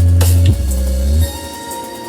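Loud electronic dance music with heavy sustained bass and drums, played through a massive 'sound horeg' sound system; the deep bass drops out a little over a second in.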